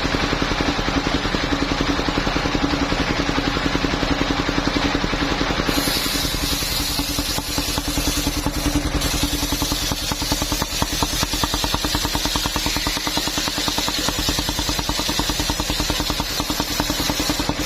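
Engine-driven circular saw of a portable sawmill running with a steady engine pulse. About six seconds in, a loud high hiss joins the sound as the blade begins cutting into the coconut trunk.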